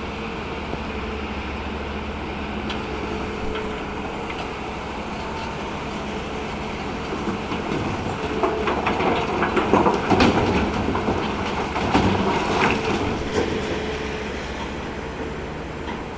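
Hyundai excavator's diesel engine running steadily while stone is loaded, with a dense spell of stones clattering and knocking for several seconds from about halfway through.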